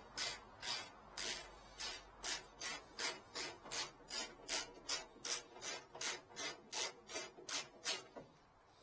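Quick, even rubbing or scraping strokes, about three a second, stopping about eight seconds in.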